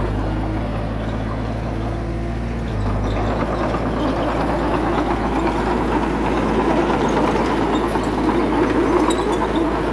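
Heavy diesel engine of earthmoving machinery running steadily, growing louder and noisier from about four seconds in as it works.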